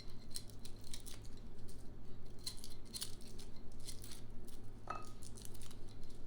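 Garlic cloves being cut and handled in kitchen prep: a run of short crisp clicks and snips, with one small ringing clink about five seconds in.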